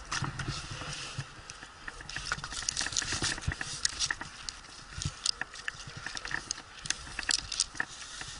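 Irregular scraping, rustling and sharp clicks from a climber handling rope, gear and the cat up in a pine tree.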